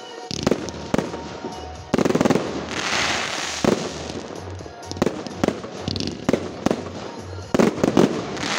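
Fireworks display: a rapid series of about a dozen sharp bursts and launch reports, with a stretch of crackling hiss about two seconds in. Music with a bass line plays underneath.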